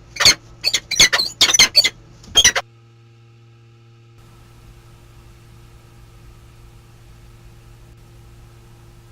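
Peregrine falcon calling: a quick series of about seven sharp, squeaky calls in the first two and a half seconds, then they stop and only a steady low electrical hum from the nest camera is left.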